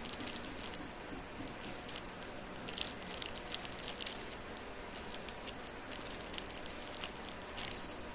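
Irregular clicks and rustling from handling, with short high-pitched beeps every second or so, the kind an electronic control panel gives when its buttons are pressed.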